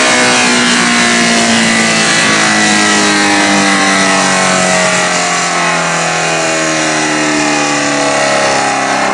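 Suzuki GSX-R1000 K3 inline-four motorcycle engine running loud on a dyno through a slash-cut exhaust, its revs falling slowly and steadily.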